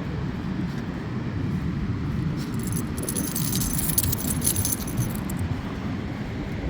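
Light metallic jingling for about three seconds in the middle, like a bunch of keys being handled, over a steady low rumble.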